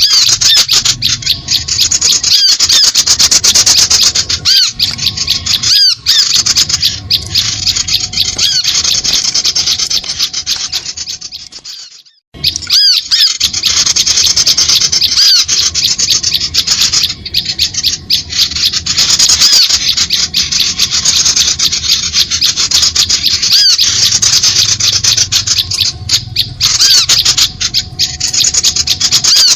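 Recorded bird-lure call (suara pikat): dense, harsh, rapid chattering and chirping of small birds, many calls overlapping. It fades out about twelve seconds in and starts again at once, as a looped track does.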